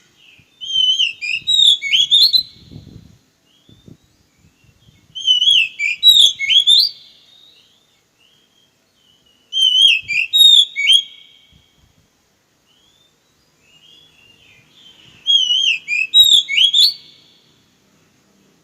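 Oriental magpie-robin (kacer) singing the same loud whistled phrase four times, about every four to five seconds, with fast rising and falling notes.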